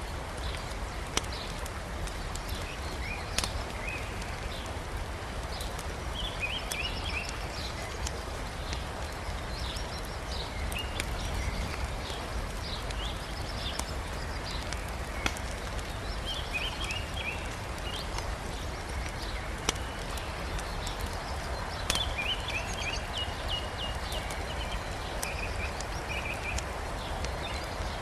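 Wood fire crackling, with a few sharp pops from the burning logs, over the steady rush of a river. Small birds sing short chirping phrases now and then.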